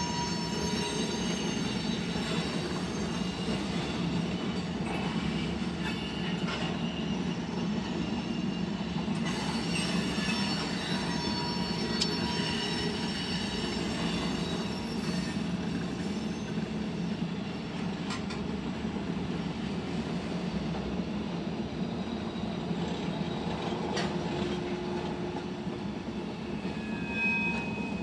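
Loaded freight cars (tank cars, then covered hoppers) rolling steadily past a grade crossing: a constant low rumble of wheels on rail, with faint high-pitched wheel squeal and an occasional sharp click or clank as wheels cross rail joints.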